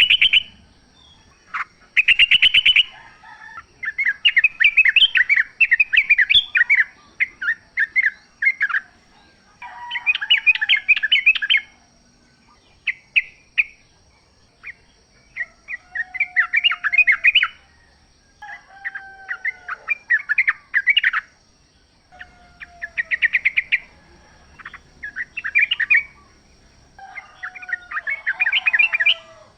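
Yellow-vented bulbuls singing: repeated bursts of quick, bubbly chirping phrases, each a second or two long, with short falling whistled notes lower in pitch between them.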